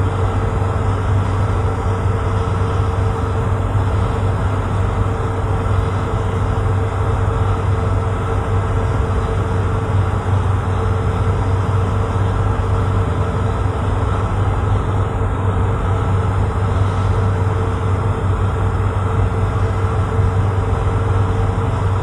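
Tugboat's diesel engine running steadily under load: a deep, even hum with a steady higher tone over it.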